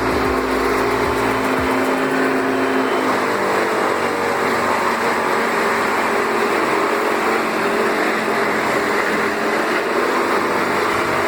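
A heavy machine's engine running steadily, with a dense mechanical noise and several steady tones; the deep rumble drops away about a second and a half in.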